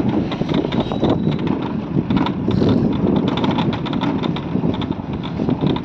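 Motorcycle running while being ridden on a rough road, with wind buffeting the microphone and irregular knocks and rattles.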